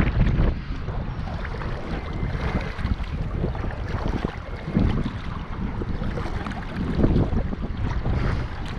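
Wind rumbling on the microphone over sea water washing and splashing around a kayak, swelling louder a few times.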